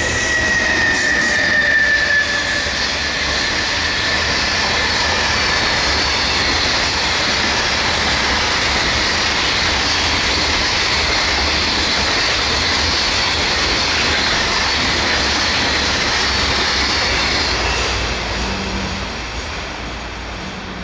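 A long container freight train rolls past on steel rails, its wagon wheels giving a steady rushing clatter. A high wheel squeal eases down in pitch over the first couple of seconds. The sound falls away near the end as the last wagons go by.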